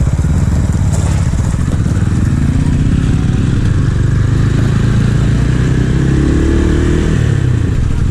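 Small-displacement motorcycle engine running on the move, its pitch climbing steadily over several seconds as it accelerates, then dropping near the end as the throttle eases.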